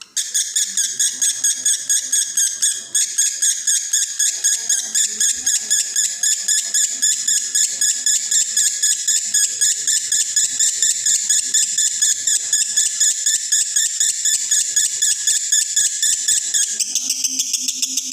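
Male lovebird in breeding condition singing a long unbroken 'konslet' trill: rapid shrill chirps repeated several times a second, starting abruptly. Near the end the lowest part of the song drops out and it goes on higher.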